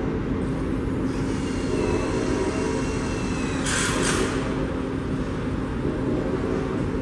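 Diesel locomotive running steadily with a passing train, with a faint high whine for a couple of seconds and a brief hiss about four seconds in.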